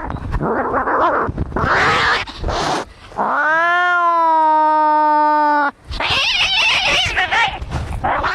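Domestic cats fighting: harsh screeching and hissing, then one long yowl that rises in pitch and holds steady for about two and a half seconds, then more harsh screeching.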